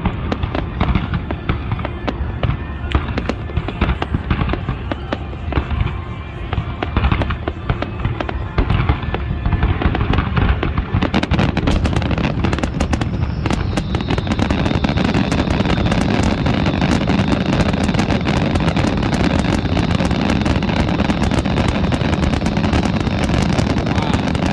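Fireworks display: a rapid string of bangs and crackles that thickens about halfway through into a continuous barrage of crackling and booms.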